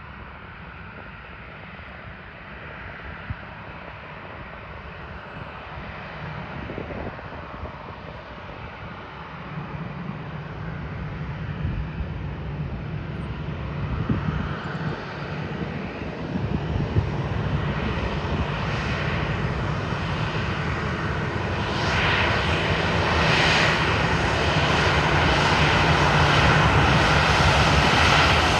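Boeing 737-800 jet airliner with CFM56-7B turbofan engines taking off, its engine roar growing steadily louder, with a high fan whine coming in over the second half.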